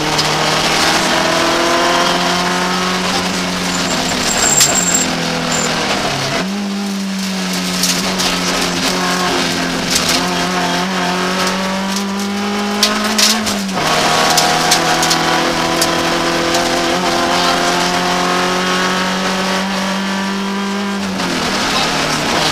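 BMW 318iS four-cylinder engine at full load inside the car's cabin, the pitch climbing through the revs and dropping sharply three times at gear changes, over tyre and road noise. A few sharp clicks come in the middle.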